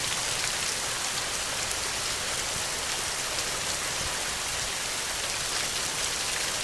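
Steady rain falling, an even hiss with faint drop ticks scattered through it.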